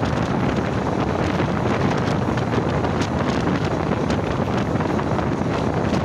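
Wind rushing and buffeting the microphone, held out from the side of a moving passenger train, over the steady running noise of the coaches on the track.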